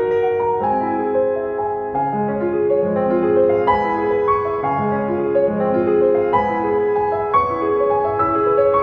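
Background piano music, one note or chord after another.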